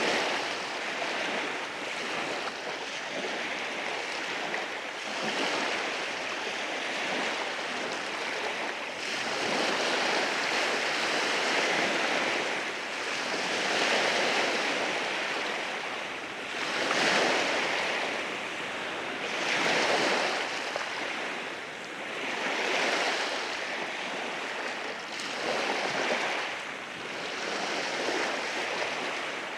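Ocean waves breaking and washing over rocks on the shore: a continuous rushing surf that swells every few seconds as each wave comes in, then drains back.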